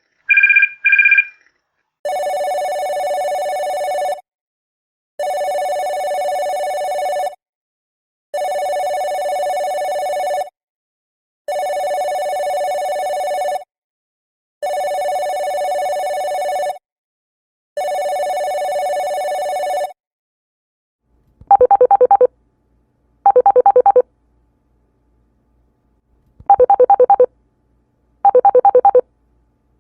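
Telephone ring tones, one ringer after another. First the end of a short high double ring, then six steady two-tone electronic rings of about two seconds each with a second's pause between, then a different, warbling ringer sounding in pairs of short bursts.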